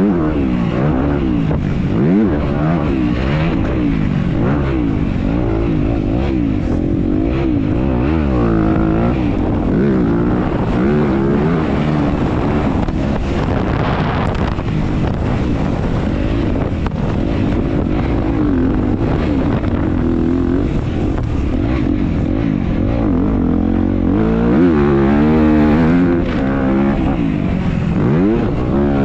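Dirt bike engine ridden hard in a race, its pitch rising and falling continuously with throttle and gear changes.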